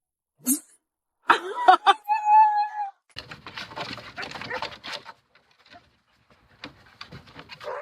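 Dog vocalising: a few short yelps with bending pitch, then a steady whine held for just under a second, followed by a couple of seconds of rustling and clicking.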